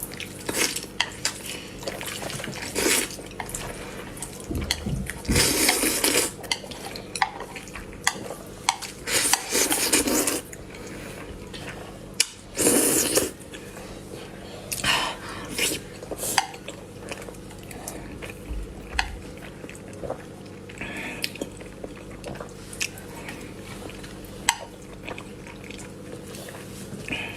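Someone eating noodles: utensils clicking and clinking against a bowl, with a few louder noisy stretches of about a second each, typical of slurping noodles.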